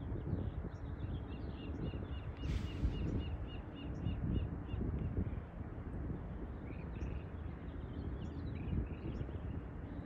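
A bird calling in a rapid series of short, repeated notes, about four a second, for several seconds, then scattered chirps, over a steady low rumble.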